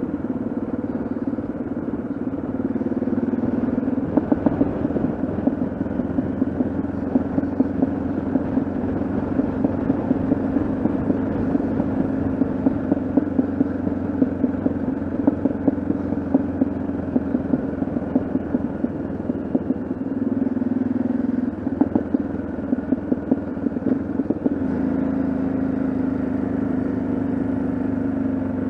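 Yamaha XT660Z Ténéré's single-cylinder engine running at a steady road cruise, with wind and road noise. Its note shifts a few times in the later part as the revs change.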